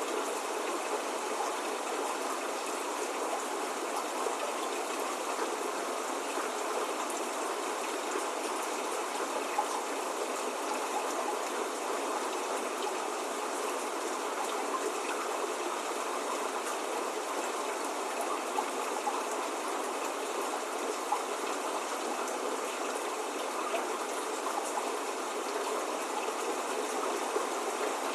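Steady spring rain falling, an even hiss with scattered louder drops, without thunder or birdsong.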